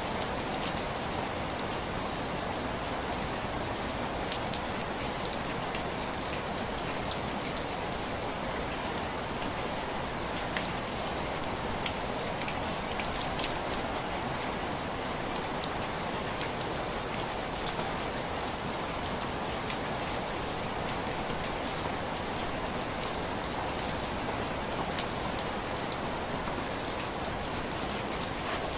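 Steady rain tapping on window glass: an even hiss of rainfall with scattered sharp drop ticks.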